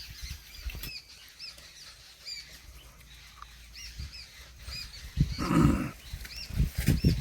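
A small bird chirping over and over, short rising-and-falling chirps about twice a second. Low thumps run underneath, with one loud brief noise about five seconds in.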